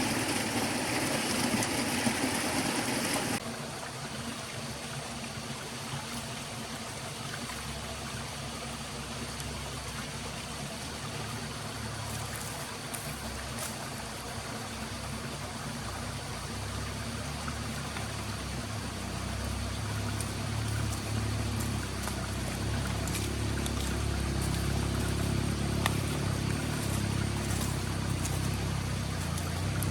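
Flowing stream. It sounds louder and fuller for the first few seconds, then drops suddenly to a quieter rush. A low rumble builds up underneath from about a quarter of the way in.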